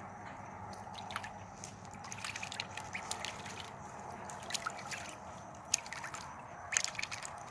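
Ducklings paddling and dabbling in water: small drips, splashes and sloshing over a steady low water noise.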